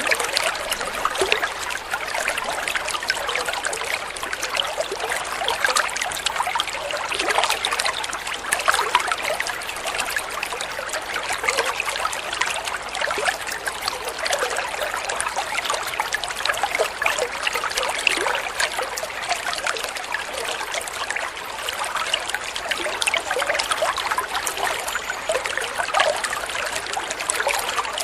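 Flowing water trickling and babbling steadily, a dense patter of small splashes with no pauses.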